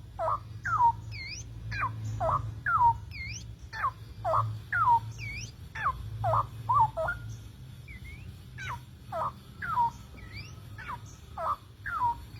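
Male straw-headed bulbul calling in a courtship display, a run of short swooping notes about two a second, with fainter higher chirps and a low steady hum.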